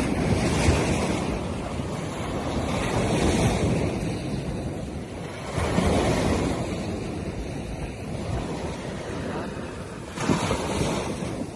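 Surf on a beach, waves washing in and swelling every few seconds, with wind buffeting the microphone.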